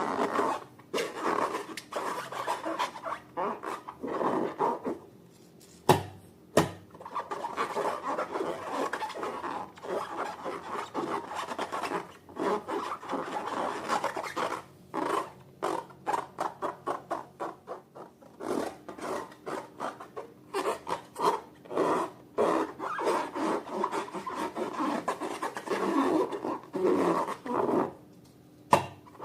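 Slime being worked by hand close to the microphone: runs of dense sticky clicking and squelching, broken by short pauses, with two sharp snaps about six seconds in.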